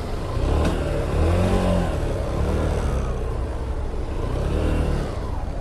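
Motorcycle engine revving and accelerating, its pitch rising and dropping several times, with a short click a little under a second in.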